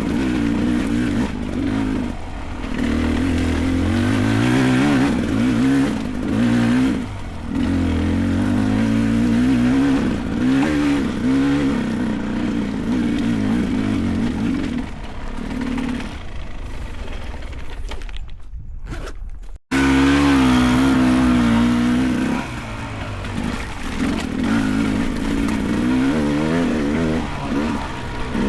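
Beta 300 Race two-stroke dirt bike engine revving up and down under load as it climbs a rough trail, the pitch rising and falling with the throttle. The sound drops off about two-thirds of the way in, cuts out for an instant, then comes back loud.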